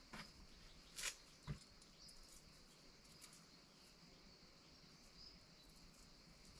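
Near silence: a faint steady high hiss with a few soft clicks, the loudest about a second in and another half a second later.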